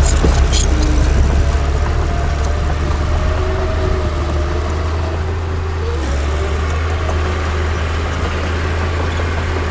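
Heavy diesel earthmoving machinery running steadily with a deep engine drone, with a few sharp metallic clanks just after the start.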